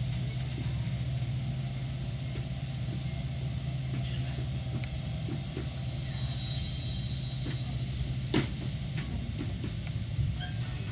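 Metra commuter train moving, heard from on board: a steady low hum and rumble with a few light knocks, one sharper click about eight seconds in.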